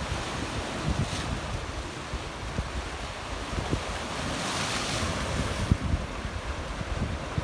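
Sea waves splashing on a rocky shore, one wave washing in more loudly about four to six seconds in, with wind buffeting the microphone.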